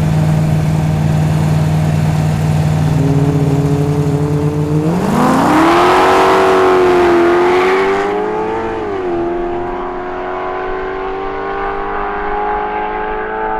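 A modified drag car's engine holds steady revs, then revs up sharply about five seconds in as it accelerates hard, with a loud rush of noise. Near nine seconds the revs fall away, and the engine runs on at a steadier, slowly rising pitch.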